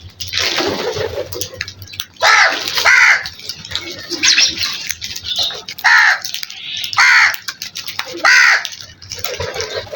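Crows cawing, with a run of loud caws roughly a second apart after a noisier first two seconds.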